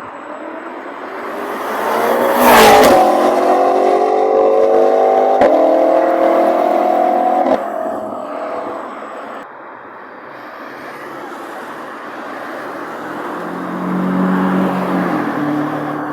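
Supercar engines passing and accelerating. One engine rises and passes close about two and a half seconds in, its note climbing steadily until it cuts off sharply about seven and a half seconds in. A second engine note swells near the end.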